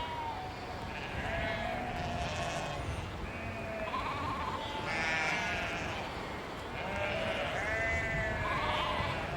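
A flock of sheep bleating, many wavering calls overlapping one after another, over a steady low background rumble.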